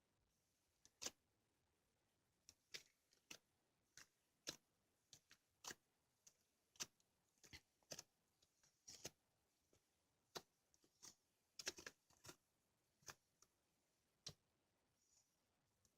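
Cookies-and-cream slime being squeezed and pressed by hand, giving sharp, irregular clicks and pops, one to three a second.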